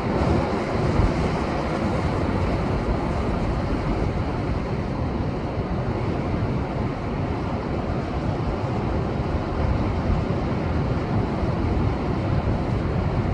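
Rough, typhoon-swollen Pacific surf breaking continuously against a rocky shore, a steady, unbroken wash of waves with no single crash standing out. Wind gusts buffet the microphone underneath.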